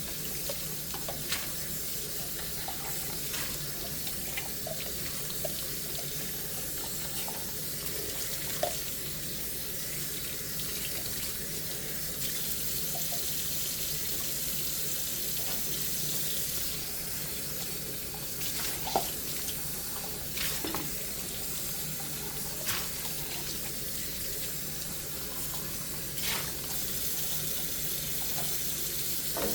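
Kitchen tap running steadily into a sink while dishes are washed by hand, with scattered light knocks of dishes against the sink or each other.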